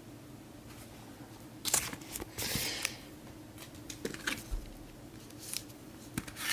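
Trading cards being handled: a few sharp clicks and brief papery slides and rustles as cards are moved and flipped, the longest slide about two and a half seconds in.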